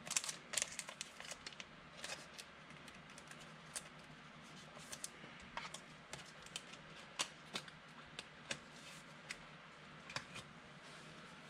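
Trading cards being handled on a table: a quick flurry of light clicks and snaps, then scattered single taps and flicks as cards are sorted.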